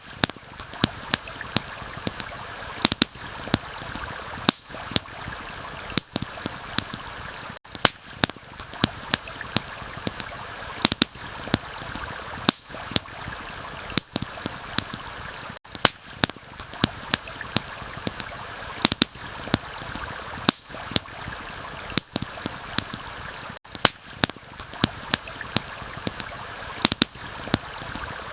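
Campfire crackling with frequent sharp, irregular pops over the steady rush of a flowing stream. The whole bed dips briefly about every eight seconds, like a looped recording.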